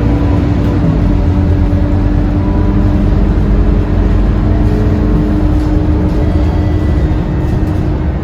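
Scania K230UB city bus under way: its five-cylinder diesel engine and drivetrain run with a steady hum and low rumble as the bus drives along.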